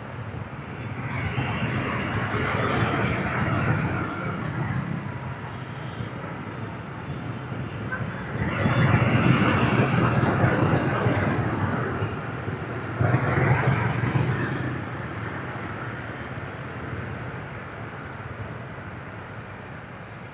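Busy motorbike traffic: engines and tyres running in a steady noisy din, with louder swells about two seconds in, around nine seconds and around thirteen seconds.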